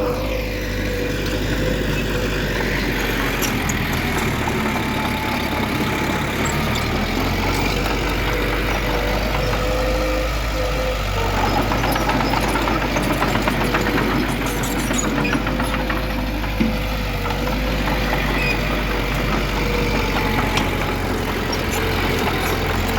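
Diesel engine of heavy earthmoving machinery running steadily, with a low rumble and a steady whine. There is a single sharp knock about two-thirds of the way through.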